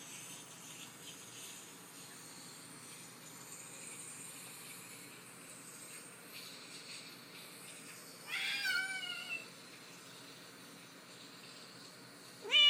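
A domestic cat meowing twice over a faint steady hiss: a drawn-out meow about eight seconds in, and a louder one at the very end.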